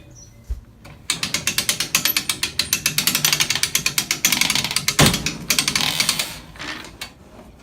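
Hand-cranked boat winch ratcheting as it is cranked: rapid, even pawl clicks while it hauls a heavy garden tractor up onto the lift. The clicking starts about a second in and stops about six seconds in, with one heavier knock about five seconds in.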